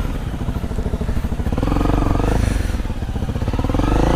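Honda CRF250L dirt bike's single-cylinder engine running at low revs, its separate firing pulses clearly heard. The revs pick up briefly about halfway through and again near the end.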